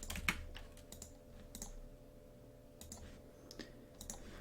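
Faint, irregular clicks of a computer mouse and keyboard as a drawing is made in CAD software, about eight or nine scattered over a few seconds, over a low steady hum.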